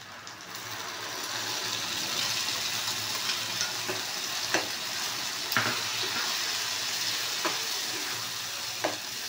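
Tomato puree hitting the hot oil of sautéed onions and garlic in a kadai, sizzling steadily after building up over the first couple of seconds. A metal spatula stirring the mixture knocks and scrapes against the pan about six times.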